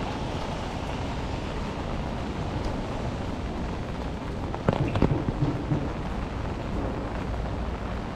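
Steady rain over city street noise, with a brief cluster of sharp knocks about five seconds in.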